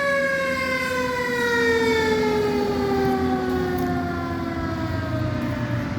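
A siren winding down: after a quick rise in pitch, its tone falls slowly and steadily for several seconds.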